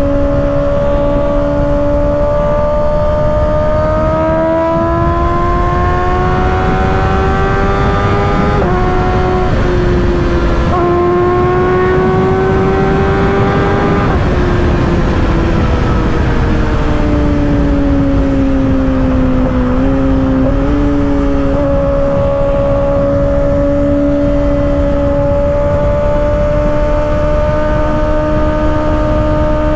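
Inline-four engine of a 2024 Kawasaki ZX-6R with an M4 exhaust pulling on the freeway: revs climb, drop sharply at an upshift about nine seconds in, and climb again. From about fifteen seconds the revs fall off as the throttle closes, then hold steady at cruise over constant wind and road noise.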